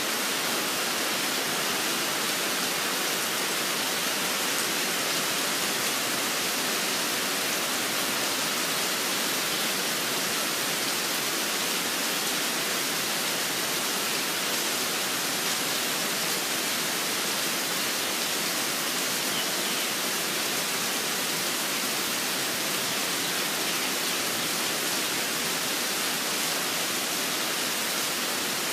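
Steady rain falling, a constant even hiss with no change in level.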